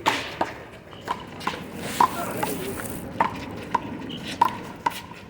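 A rubber handball being struck by hand and smacking off the wall in a fast rally: a string of sharp pops, roughly two a second.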